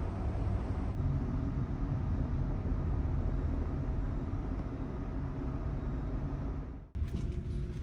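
Steady low rumble of a large car ferry underway: engine and hull noise, continuous and even. It breaks off abruptly about seven seconds in and resumes with a slightly different sound and faint clicks.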